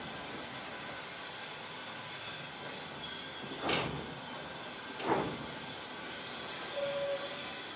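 Steam-hauled heritage train running along the line, heard from the rear of the train: a steady rushing noise with two knocks about a second and a half apart from the wheels going over rail joints.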